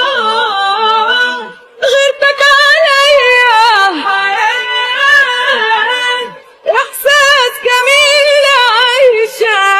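Song with a woman singing drawn-out, ornamented wordless notes in three phrases, with short breaks about two seconds and six and a half seconds in.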